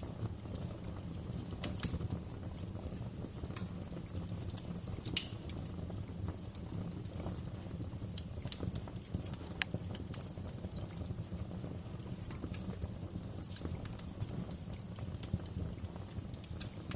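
Wood fire crackling: irregular sharp pops and snaps, a few louder than the rest, over a steady low rumble of burning logs.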